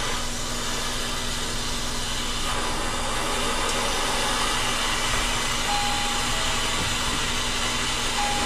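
Steady hiss of a brazing torch flame heating the copper refrigerant line joints on an ice machine compressor, over a low steady hum.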